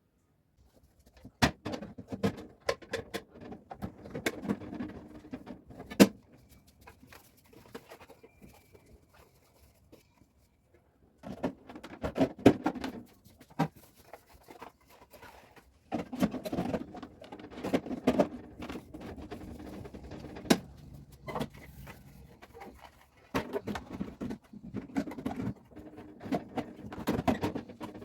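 Fridge racks being scrubbed and handled: bursts of rubbing and scraping with sharp clinks and knocks, quieter for a few seconds about a third of the way in.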